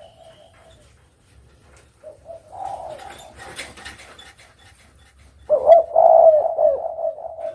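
Spotted dove (derkuku) cooing: a soft phrase of coos about two seconds in, then a loud, low coo phrase starting about five and a half seconds in.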